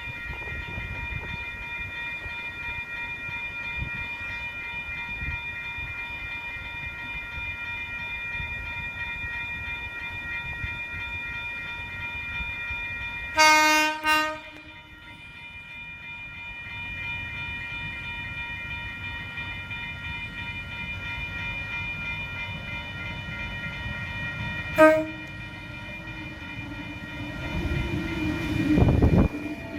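Electric train horn: one short blast about halfway through and a brief toot some ten seconds later, over a steady high hum. Near the end a low rumble builds as a train draws near.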